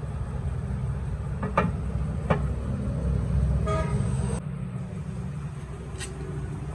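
Steady low rumble of motor traffic with a short vehicle horn toot about four seconds in. A few sharp metallic clicks sound in between.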